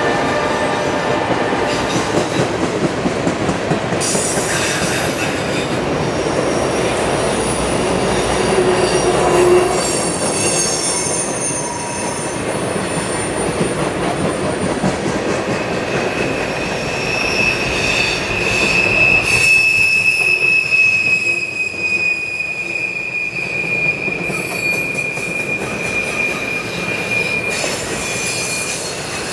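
Freight train's tank cars and autorack cars rolling past on a curve: a steady rumble and clatter of wheels on rail, with the wheel flanges squealing in high ringing tones that come and go. One long, steady squeal runs from about halfway through until near the end.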